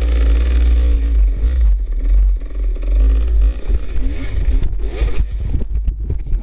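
Off-road dirt bike engine revving up and down as it is ridden over rough trail, with many short knocks and clatter from about three and a half seconds in, over a heavy low rumble.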